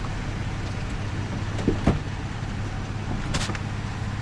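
A vehicle engine idling steadily, with two short knocks about two seconds in and a brief hiss a little after three seconds.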